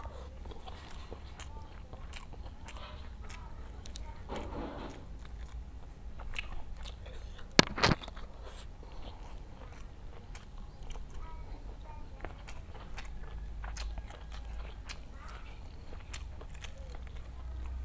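Close-miked chewing and wet mouth smacks of a man eating rice and jengkol balado, with many small scattered clicks and two sharp, louder smacks about eight seconds in.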